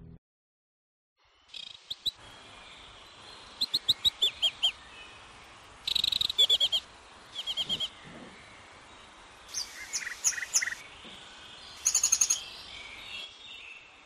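Birds chirping in short phrases of quick repeated high notes, one phrase every second or two, over a steady faint background hiss.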